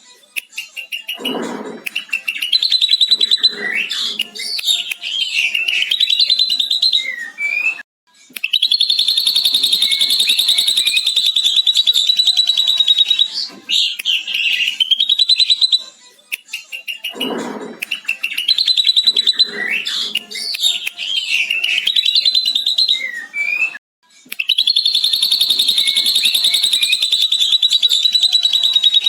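Ashy drongo singing a full mimicry song that includes a lovebird's long, fast 'ngekek' chatter. Varied whistled phrases alternate with rapid chattering trills held for about five seconds, and the same sequence repeats about every 16 seconds.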